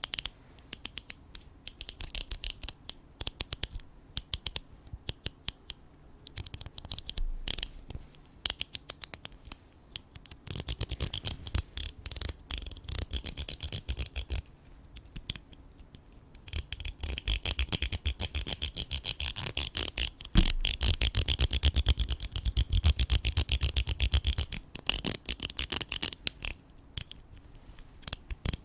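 Close scratching and clicking: scattered sharp clicks, then stretches of dense rapid scratching, the longest through much of the second half. Under it, a steady high chirring of crickets.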